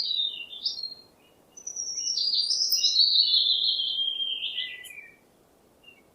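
Small songbird chirping: a short run of chirps, then a long warbling phrase that drifts down in pitch and ends about five seconds in.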